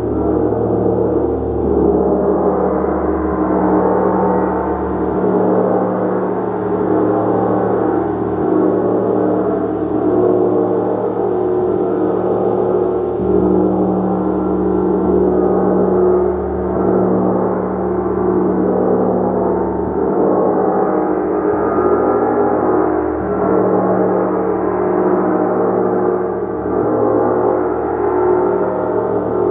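A gong played continuously, giving a dense, sustained wash of many overlapping ringing tones that swells gently every few seconds without distinct single strikes.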